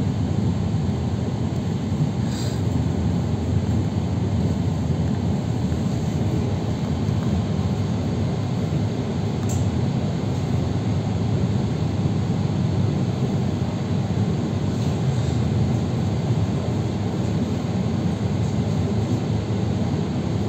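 Steady low rumble of a moving electric commuter train, heard from inside the carriage: wheels running on the rails with no letup. A few faint, brief high clicks come through the rumble.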